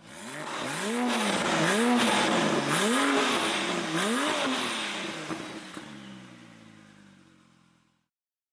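Porsche 997 Turbo's twin-turbocharged flat-six revved about four times in quick succession, the note climbing and dropping about once a second, then dying away.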